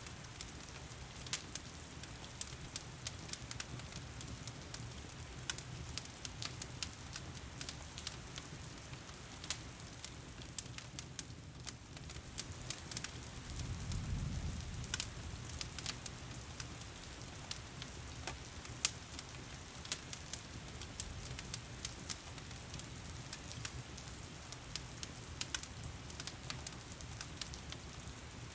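Wood fire crackling with frequent sharp pops over the steady hiss of heavy rain. A soft low rumble swells briefly about halfway through.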